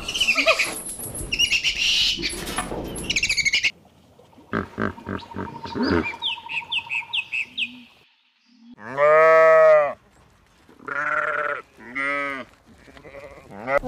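A run of farm animal calls: squawking bird calls over the first few seconds, a few clicks and chirps, then a loud drawn-out livestock call about nine seconds in and two shorter ones near the end.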